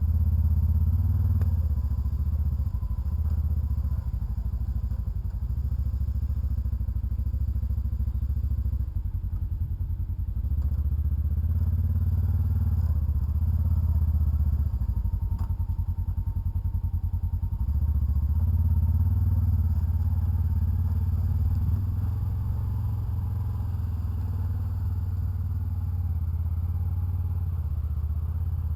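Polaris Ranger side-by-side's engine running as it drives, the engine note easing off and picking back up several times.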